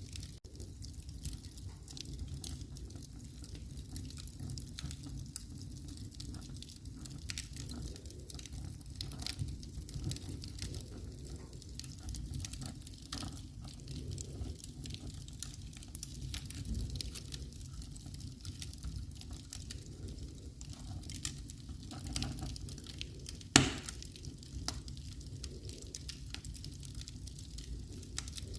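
Wood fire burning in a fireplace: irregular crackling and snapping over a low rumble, with one louder pop about three-quarters of the way through.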